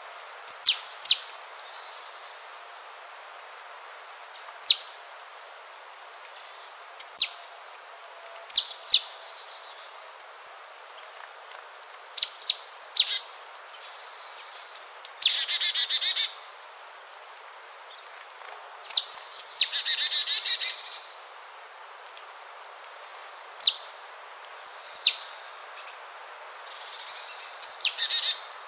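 Songbird calling: sharp, high chirps that sweep quickly downward, repeated every second or two at irregular intervals, with two longer buzzy trills in the middle. A faint steady hiss of outdoor background lies under them.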